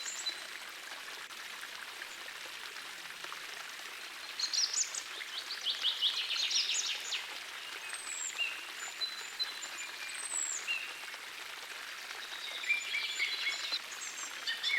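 A small forest stream running steadily, with songbirds singing over it: a rapid trill about five seconds in and another around six to seven seconds, high whistled notes around eight and ten seconds, and chirping near the end.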